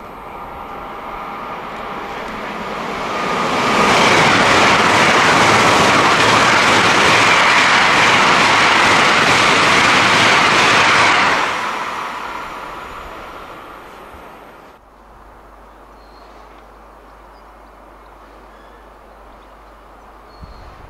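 A train passing: its noise builds over a few seconds, holds as a loud steady rush for about seven seconds, then fades away. About fifteen seconds in it cuts off suddenly, leaving a quieter steady background.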